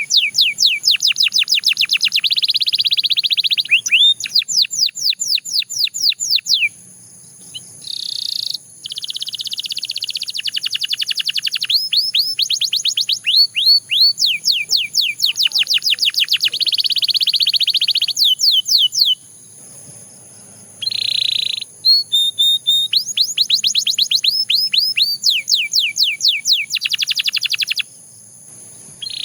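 Canary singing: long trills of rapidly repeated, quickly falling high notes, run together into rolling phrases several seconds long, with short breaks about seven seconds in, around twenty seconds in, and near the end.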